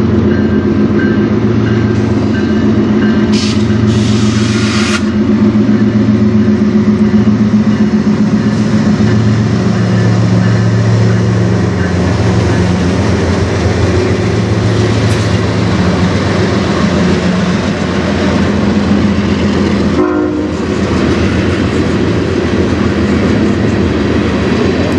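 Freight train's diesel locomotives passing close by with their engines running in a steady low drone, followed by loaded covered hopper cars rolling past with wheel clatter on the rails. A brief, high, sharp sound comes about three to five seconds in.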